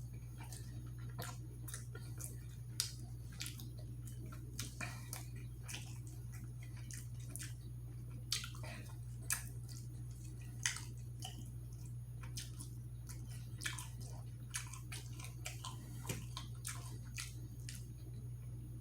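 A person chewing food close to the microphone, with irregular wet mouth clicks and smacks, over a steady low hum.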